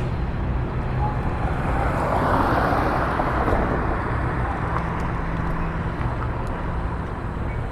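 Road traffic: a steady low engine drone with a vehicle passing, loudest about two to three seconds in.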